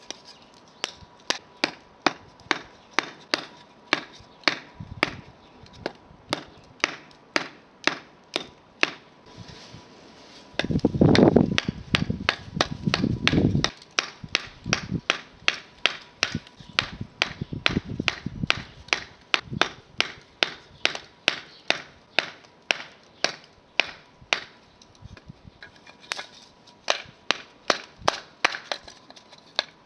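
Repeated chopping strikes, about two a second and steady in rhythm, with a louder stretch of noise for a few seconds near the middle.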